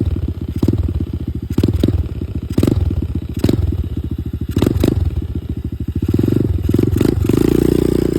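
Dirt bike engine running at low revs in an even beat, with the loose back fender wobbling and rattling: sharp, irregular clacks over the engine.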